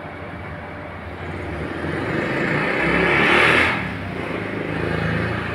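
A motor vehicle's engine running close by, growing louder to a peak about three and a half seconds in, then easing off.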